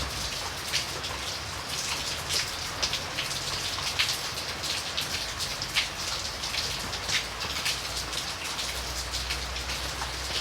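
Steady rain falling, with many individual drops striking a surface close to the microphone as sharp irregular splats over a continuous hiss, and a low rumble underneath.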